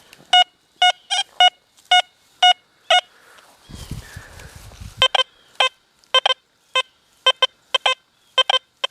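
XP Deus II metal detector in 5-tone mode giving short target beeps as the coil sweeps over a small gold ring with an iron nail above it. A run of higher-pitched beeps comes first, then after a brief low rumble a run of lower-pitched beeps, the detector sounding different tones for the two targets.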